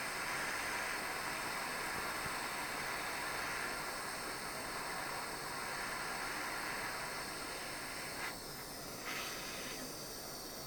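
Soldering torch flame hissing steadily while heating a brass ring joint that has not yet reached solder temperature; the hiss drops off briefly about eight seconds in and again near the end.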